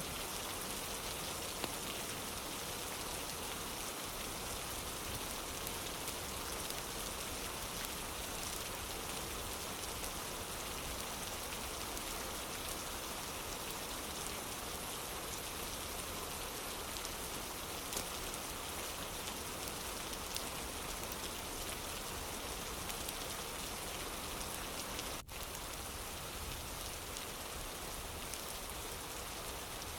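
Steady rain, an even hiss with a few faint ticks here and there; the level dips for an instant about 25 seconds in.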